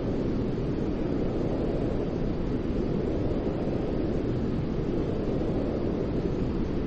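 Steady white-noise sleep sound: an even, deep rushing hiss, heavy in the low end and dull in the highs, with no change in level or pitch.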